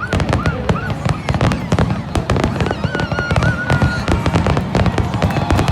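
A fireworks display going off in rapid, continuous bangs and crackles over a low rumble, with a few brief high whistling tones.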